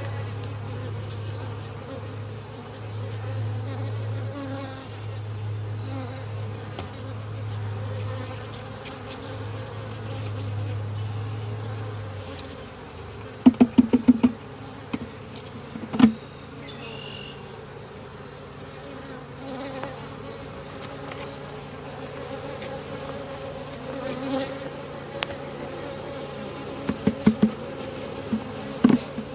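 Honeybees buzzing around an open, smoked hive, with a steady low hum for roughly the first twelve seconds. A few quick clusters of sharp knocks about halfway through and again near the end stand out as the loudest sounds.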